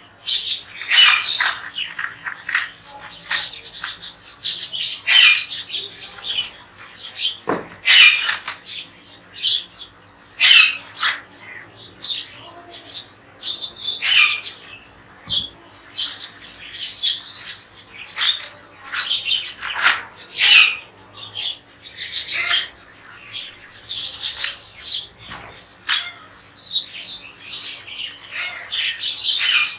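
Several pet parrots squawking and chirping, calling over one another in frequent short, shrill bursts.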